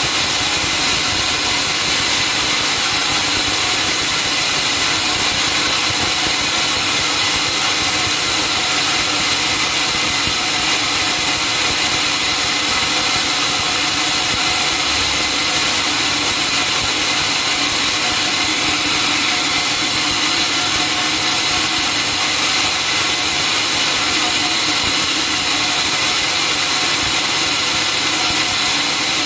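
Sawmill saw running steadily, a loud, unchanging mechanical drone with a high hiss and no starts or stops.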